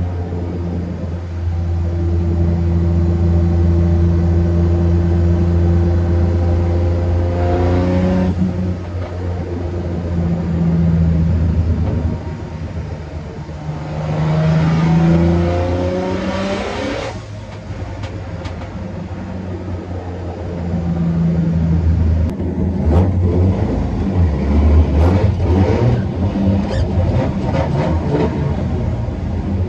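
Race car engine heard from inside its stripped, roll-caged cabin while driving: a steady drone whose revs climb and cut off sharply twice, about eight and seventeen seconds in. Near the end, irregular clicks and knocks sound over a lower, uneven engine note.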